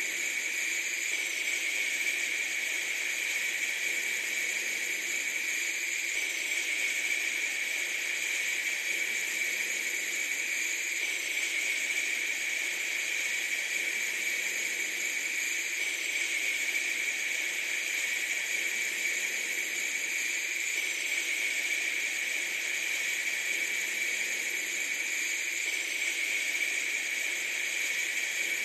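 Steady, unbroken hiss, strongest in the upper-middle range and without any deep rumble.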